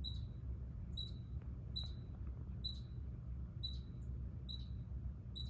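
A short, high chirp repeated at a steady pace about once a second, over a low rumble.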